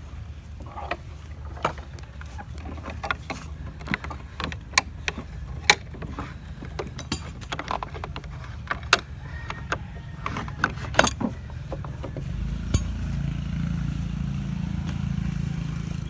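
Irregular metal clinks and knocks as the portable sawmill's frame and clamps are taken off the freshly cut log. Under them runs a steady low engine hum, which grows louder about twelve seconds in.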